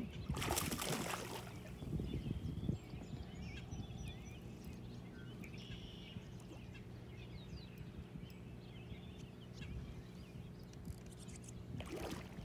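Outdoor pond-side ambience: a steady low hum with scattered small bird chirps. A brief noisy rush comes about half a second in, and a weaker one near the end.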